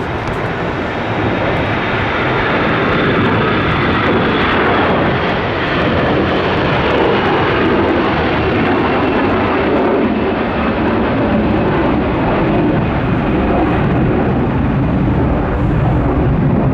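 Airbus A321 jet engines at takeoff power: a loud, steady roar with a faint high whine, building over the first few seconds.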